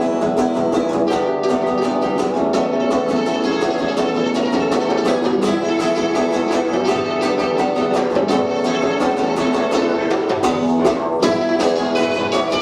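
Live punk rock band playing the instrumental opening of a song: guitar over a fast, steady beat.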